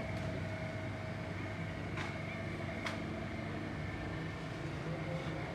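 Steady low mechanical hum with two light, sharp clicks a second apart, near the middle.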